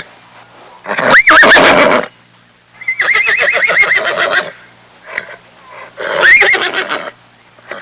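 Horse whinnying three times: a short call about a second in, a longer quavering whinny around three seconds in, and another call about six seconds in.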